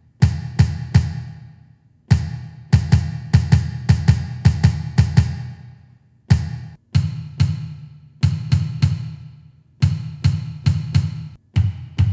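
Bass drum sound of a Donner DED-200 electronic drum kit, triggered by its kick pedal on the bass drum pad. It plays groups of kicks a few a second, with short pauses between them, each hit deep and dying away quickly.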